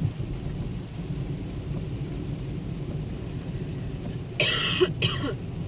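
Steady low rumble of a car cabin on a rain-soaked road in a downpour, with a person coughing twice in quick succession near the end.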